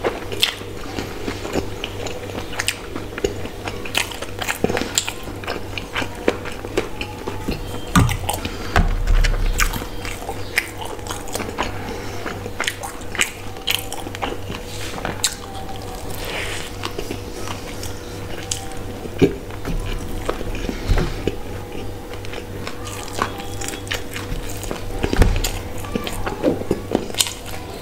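Close-up chewing and biting of spicy instant noodles and a fried chicken burger: many short wet mouth clicks and smacks over a steady faint hum.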